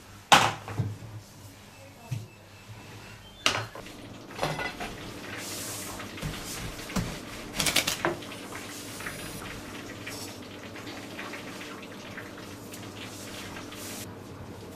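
Kitchen work during home baklava making: dishes and utensils knocking and clinking every few seconds, with two short hissing stretches and a steady low hum underneath.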